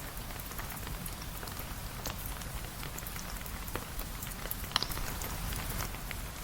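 Steady rain hissing, with scattered sharp drip ticks and one louder tick a little under five seconds in.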